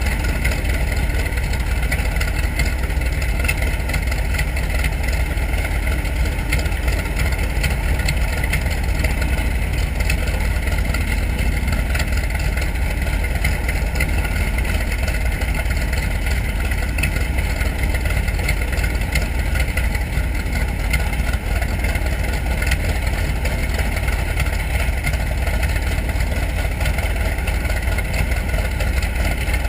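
Grumman TBM Avenger's Wright R-2600 fourteen-cylinder radial engine running steadily at a constant speed.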